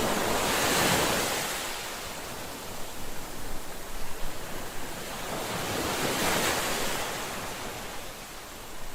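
Ocean waves breaking on a shore, two swells of surf, one about a second in and another around six seconds in, each washing up and fading away.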